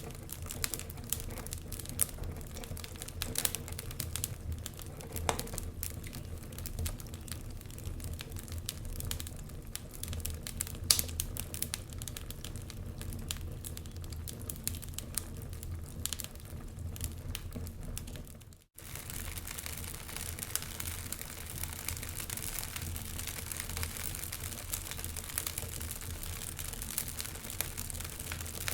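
Wood fire burning in a fireplace, with irregular crackles and pops over a steady low hiss. The sound cuts out for a moment about two-thirds of the way through, then carries on with a smoother hiss and fewer pops.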